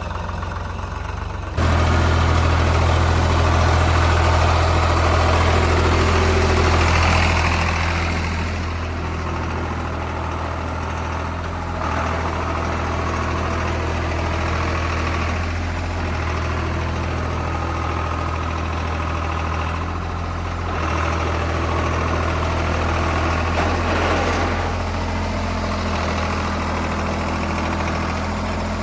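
Tractor diesel engine running steadily with a low, even hum. The level jumps up sharply about two seconds in and shifts abruptly several more times.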